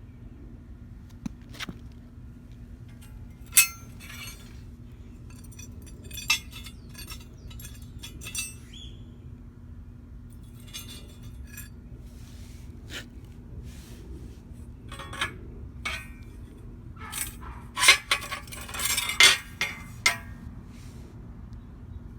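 Irregular metallic clinks and clanks of tools or metal parts being handled during a repair, with a dense run of clatter near the end. A steady low hum lies under them.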